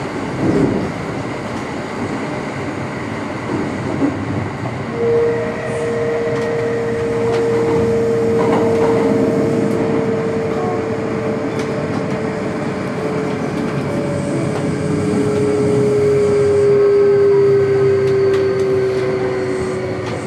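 Kintetsu electric train running through a tunnel, heard from inside the carriage: a dense rumble of wheels on rail with occasional clicks. About five seconds in, a clear whine begins and slowly drops in pitch.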